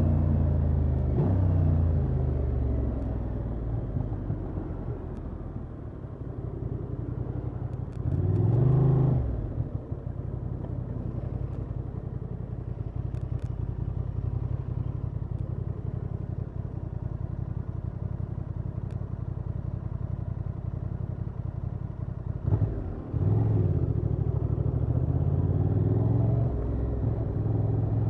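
Honda XL750 Transalp's parallel-twin engine through its stock exhaust: it winds down off the throttle, then idles low and steady with one short rev about eight seconds in, and pulls away again, rising through the revs near the end.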